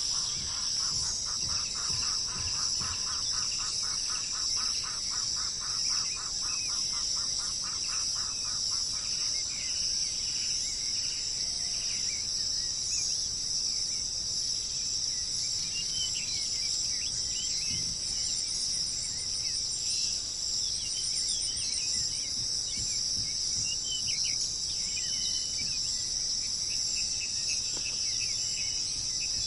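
Steady high-pitched insect chorus, with birds calling over it: a fast run of repeated notes for the first nine seconds or so, then scattered short chirps and trills.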